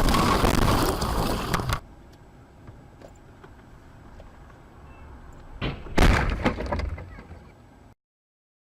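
Loud noise that cuts off abruptly after under two seconds, then faint steady hum, then a loud impact about six seconds in that dies away, typical of a vehicle collision heard on dashcam audio.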